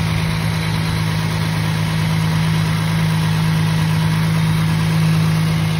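2007 Toyota FJ Cruiser's 4.0-litre V6 idling with a steady, low hum. It has just been refilled with transmission fluid and is left idling to circulate it.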